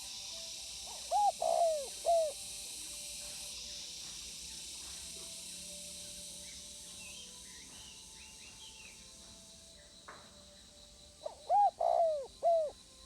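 Spotted dove cooing: two three-note phrases, one about a second in and the other near the end, over a steady background hiss with faint high chirps from other small birds in between.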